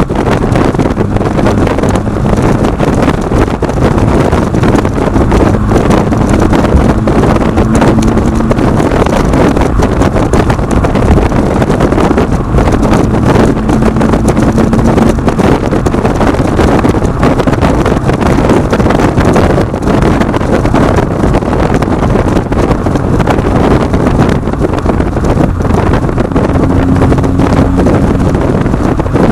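2010 Acura TSX's exhaust through aftermarket Megan Racing mufflers while the car is driven, a steady loud drone whose pitch rises slightly a few times.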